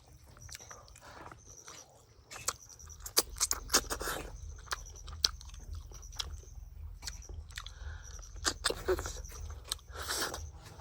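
Close-up eating sounds: a person chewing and biting into snails, with many sharp clicks and crunches.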